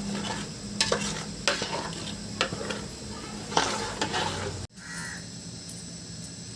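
A spoon stirring and scraping through a curry frying in a pan, with a steady sizzle and a few sharp scrapes against the pan. About two-thirds of the way through, the sound cuts off abruptly to a quieter, steady background.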